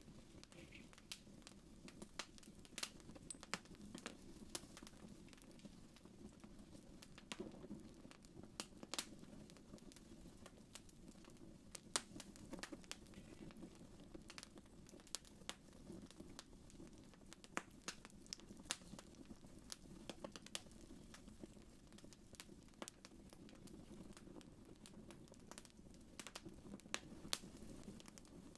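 Wood fire crackling faintly: irregular sharp pops and snaps over a low steady rumble of the flames.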